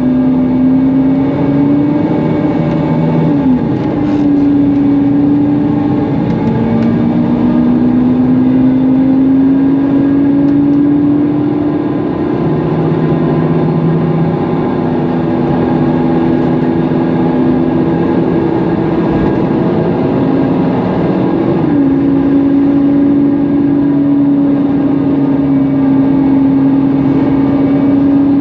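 Mercedes-Benz Conecto NGT city bus under way, heard from inside: its natural-gas engine runs together with the engine cooling fan, which the bus is known for as noisy, giving a loud steady hum-whine. The pitch dips and jumps back about three seconds in and again about two-thirds of the way through, and rises slowly through the middle as the bus picks up speed.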